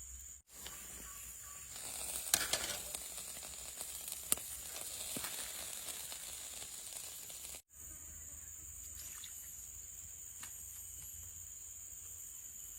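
Food sizzling as it fries over a campfire, a steady hiss with crackles and pops that starts about two seconds in and stops at a cut near eight seconds. After the cut a steady high-pitched drone of insects remains.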